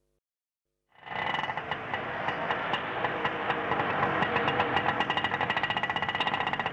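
Indian auto rickshaw's small engine running with a rapid, even putter. It fades in about a second in, after a moment of silence.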